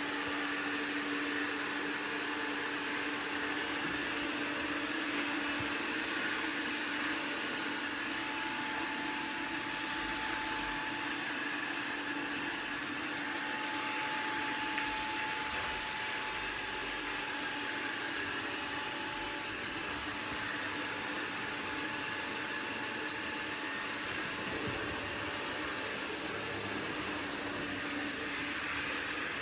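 iRobot Roomba Combo 405 robot vacuum running: a steady motor whir with faint humming tones that shift slightly over time.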